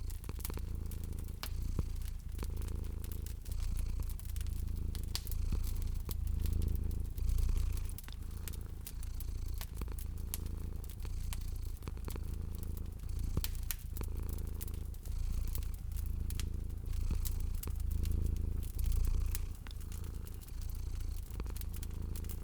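Domestic cat purring steadily in slow swells, over the scattered pops and crackles of a wood fire.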